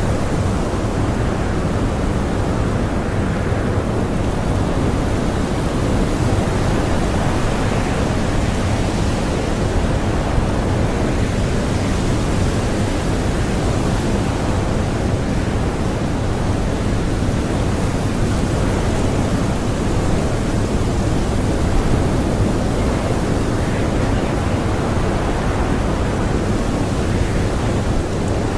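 Blizzard wind howling in a steady, dense rush with slow gentle swells and no gusts standing out.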